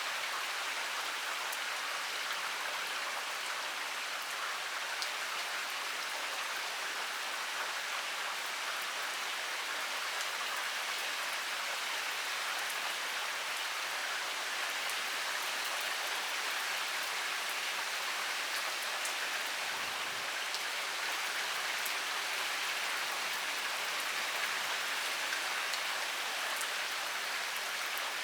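Heavy rain pouring steadily: an even hiss of falling water, with scattered small ticks of individual drops striking.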